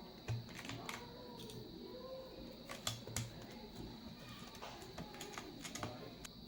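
Mechanical keyboard keycaps being pressed back onto their switches: irregular plastic clicks and clacks, a few of them louder, over a faint steady high-pitched whine.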